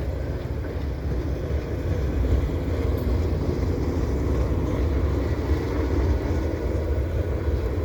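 Freight cars of a long CN mixed freight train rolling past: a steady, unbroken rumble of wheels on the rails.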